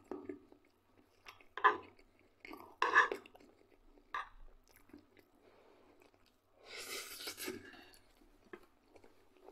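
A man chewing mouthfuls of fried potatoes close to the microphone, with short wet mouth noises and, about seven seconds in, a longer breathy rush of air.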